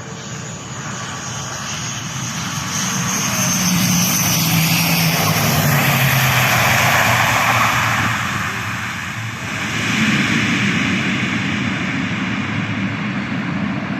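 Citilink ATR 72-600 turboprop airliner landing. Its engines and propellers grow steadily louder to a peak about six to seven seconds in, with a low drone that falls slightly in pitch. The sound dips briefly, then swells again about ten seconds in and stays loud.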